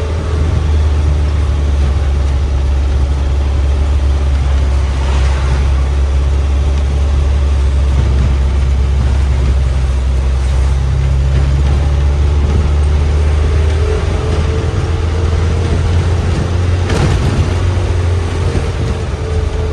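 Bus diesel engine running steadily under way, a loud low drone. Two brief louder noises come through, about five seconds in and again near the end.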